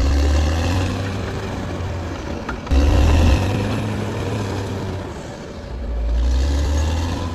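Caterpillar D6R XL bulldozer's diesel engine running under load, its low rumble rising and falling in swells. There is a sudden louder surge a little under three seconds in.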